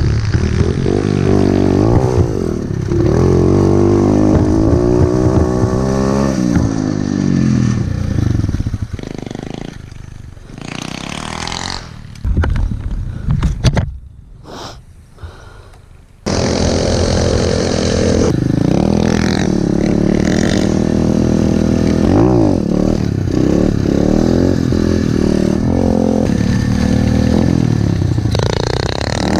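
Pit bike engine revving hard, its pitch climbing and dropping again and again as the rider works the throttle and shifts. The engine sound falls away for several seconds around the middle, then comes back loud and keeps revving to the end.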